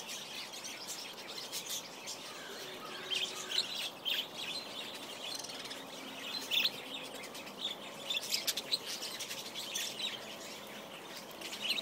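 Many small birds chirping at once: quick, high, overlapping chirps and chatter from a flock feeding close by.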